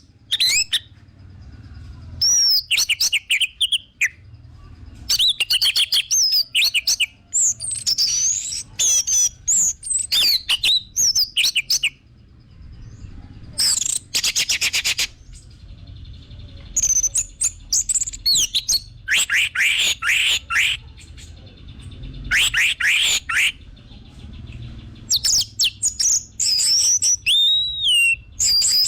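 Orange-headed thrush (anis merah) singing in repeated phrases of whistled notes that slide up and down, mixed with fast rattling trills, with short pauses between phrases.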